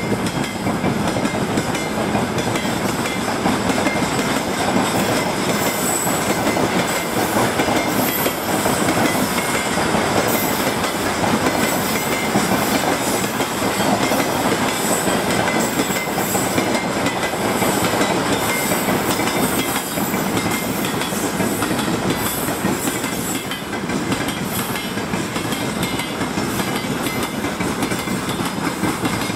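Freight train of open gondola wagons rolling steadily past close by, steel wheels clattering over the rails.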